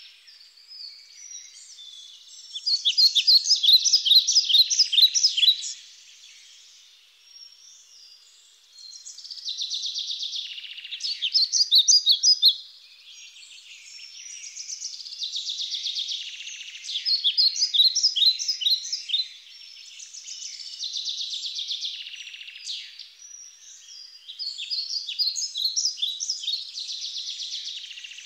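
Songbird singing: phrases of rapid high chirps and trills, each two to four seconds long, with short pauses between.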